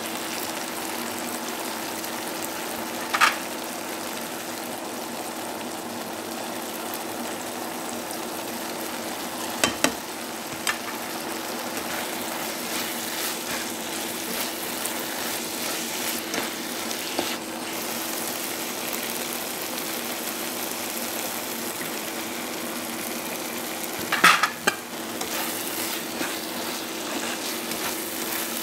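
Chicken hearts frying with onions and tomatoes in a coated pan: a steady sizzle while a spatula stirs and scrapes, knocking sharply against the pan about 3, 10 and 24 seconds in. A faint steady hum sits underneath.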